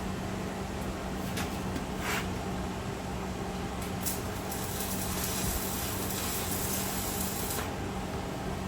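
Arc welding on a steel smoker: a steady electrical hum, a few sharp clicks, and a hissing crackle from about five to seven and a half seconds in.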